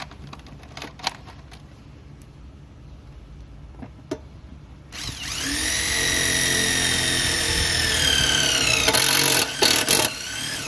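Makita TD0101F corded impact driver revving up and driving a screw, its motor whine sagging slightly under load. Near the end it turns harsher and rattling, typical of the hammer mechanism engaging as the screw tightens, then it stops. Light clicks and taps of handling come before it starts.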